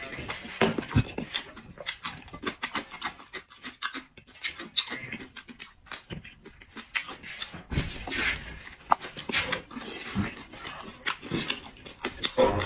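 Close-up eating sounds: a person chewing and smacking their lips in quick, irregular clicks and wet smacks, with breathing between bites.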